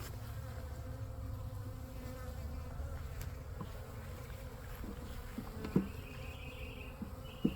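Honey bees buzzing in a steady drone around an open hive. A couple of light knocks come near the end.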